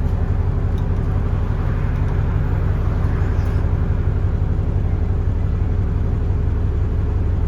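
Alexander Dennis Enviro400 double-decker bus's diesel engine running with a steady low drone, holding an even pitch.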